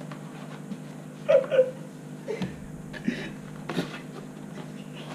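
A short vocal sound, then a few light knocks and clicks of handling, over a steady low hum.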